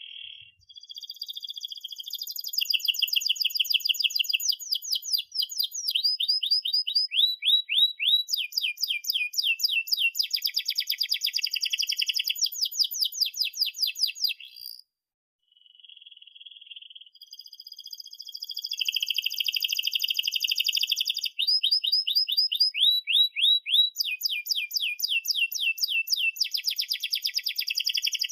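Domestic canary singing two long phrases of fast repeated trills and rolls, some notes sweeping down in pitch, with a short pause about halfway through.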